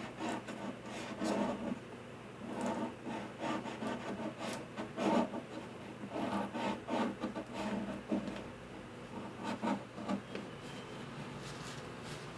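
Hand abrasion of guitar wood, in short uneven rubbing strokes that thin out near the end.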